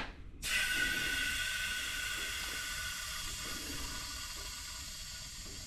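Pressurised air hissing out through the release valve of a cooling system pressure tester as the test pressure is let off the car's cooling system. It starts abruptly about half a second in and slowly dies down as the pressure bleeds away.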